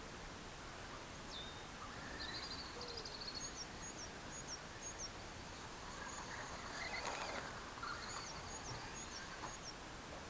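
A bird chirping in two runs of about four short, high notes over faint outdoor background noise, with a brief rustle about seven seconds in.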